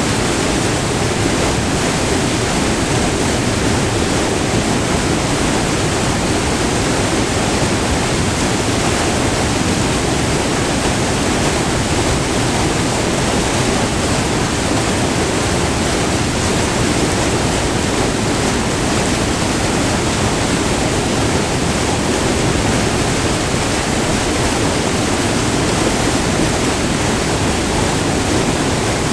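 Waterfall on a river: white water tumbling over a short, multi-tiered fall, recorded up close as a loud, steady rush with no change in level.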